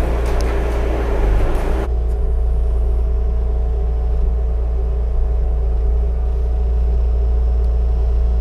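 An engine running steadily with a low, even rumble. A noisy rasp over it cuts off abruptly about two seconds in, leaving the engine running evenly.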